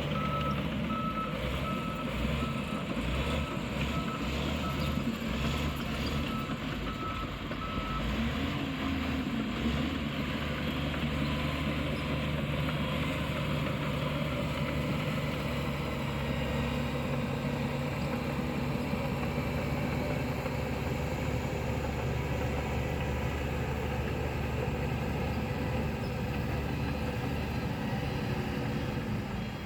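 Diesel engine of a heavy construction machine running steadily, with its reversing alarm beeping about twice a second for the first several seconds before stopping. A fainter, higher-pitched beeping starts near the end.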